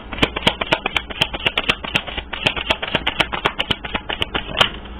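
Deck of tarot cards being shuffled by hand: a rapid, irregular run of sharp clicks and slaps, several a second, stopping just before the end.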